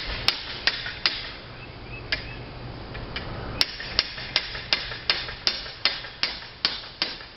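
Hammer blows, probably on a slate roof: a few spaced strikes, then from about halfway a steady run of about ten quick, even blows, two to three a second, typical of driving a nail.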